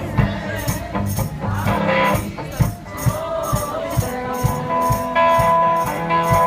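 One-man band playing blues: a foot-worked tambourine jingling about three times a second over guitar and a bass line, with long held notes coming in about halfway through.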